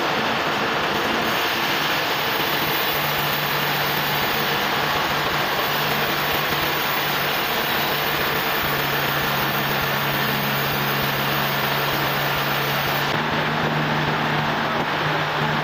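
Sawmill engine running steadily under a loud, even noise, its low note shifting slightly a few times.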